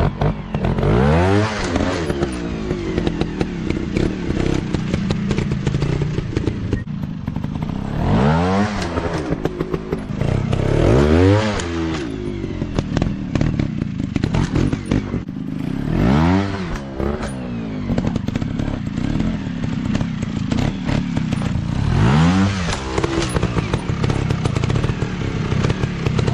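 Dirt bike engine revving hard and dropping back about five times, its pitch rising and falling with each burst of throttle, over a continuous rough mechanical clatter.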